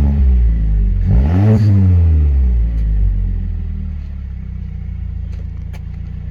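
Mazda 3 Turbo's 2.5-litre turbocharged four-cylinder, breathing through a Corksport short-ram intake and 63.5 mm catback exhaust, coming down from a rev, blipped again about a second in, then settling back to a steady idle.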